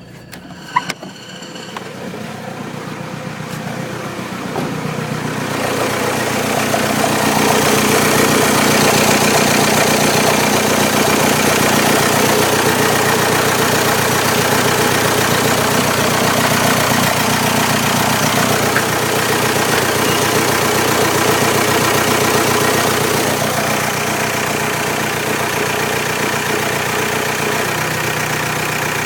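VW Golf 3's 1.9 TDI four-cylinder turbodiesel engine running steadily at idle. It grows louder over the first several seconds and eases slightly about three-quarters of the way through. A single sharp click comes about a second in.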